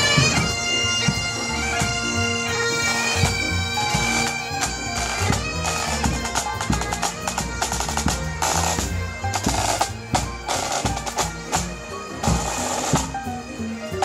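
Marching band playing: a melody over a steady held drone, with regular snare and bass drum beats.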